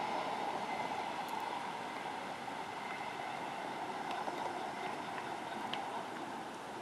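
Electric commuter train moving away, its steady hum slowly fading into the distance.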